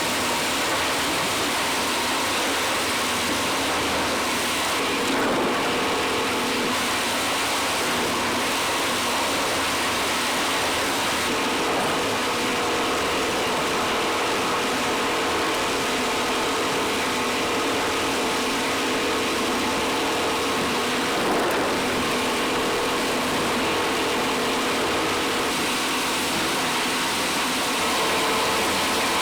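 Machinery in a plastic recycling and pipe-making plant running steadily: a dense mechanical clatter over a constant hum.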